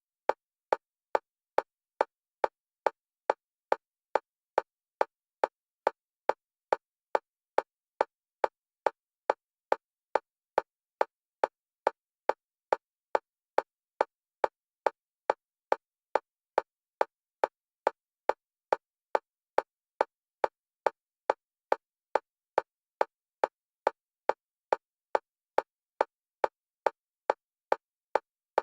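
Electronic metronome clicks at one pitch, a little over two a second, perfectly even, each click alternating between left and right stereo channels for EMDR bilateral stimulation.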